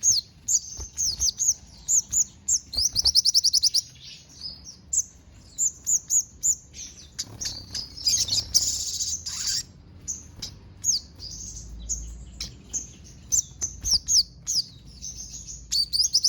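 A sogon (crimson sunbird) singing a fast, continuous song of high chirps and rapid trills, with a buzzy stretch about halfway through. Its song is filled with copied phrases of house sparrow, cililin and canary.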